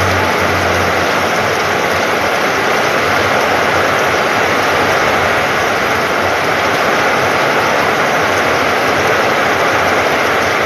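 Heavy downpour: a loud, steady rush of rain falling.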